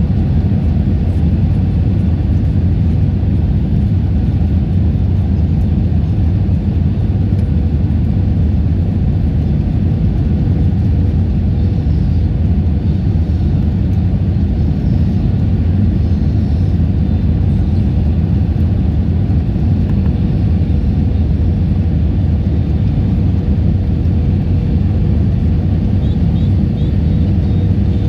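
A loud, steady low rumble with a faint steady hum, unchanging throughout.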